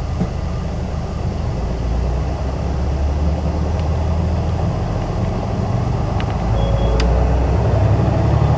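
Isuzu Erga city bus's diesel engine running while the bus is under way, heard from inside the cabin as a steady low drone. The drone grows louder about two seconds in and again near the end. A couple of faint clicks and a brief faint high beep come late on.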